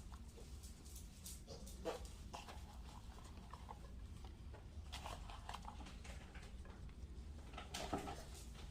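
Faint scattered rustles and soft clicks of hands spreading shredded mozzarella cheese over a casserole, over a low steady hum.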